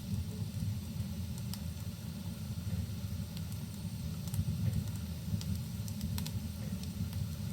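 Wood fire crackling in a fireplace: scattered sharp pops and snaps over a steady low rumble, in a rain-and-fire cabin ambience.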